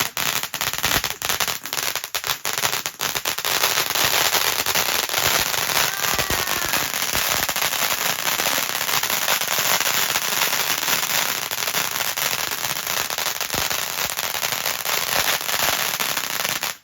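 Firework crackling: a dense, rapid run of small cracks and pops kept up for many seconds, more spaced cracks at first, then an unbroken crackle that cuts off suddenly near the end.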